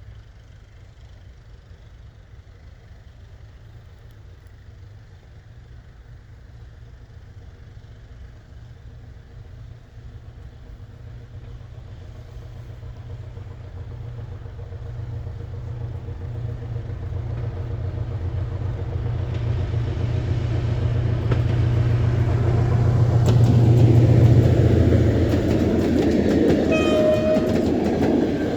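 An SM42 diesel-electric locomotive approaches with a deep engine rumble that grows steadily louder. Near the end it sounds a short horn signal and passes close by with a rattle of wheels and wagons.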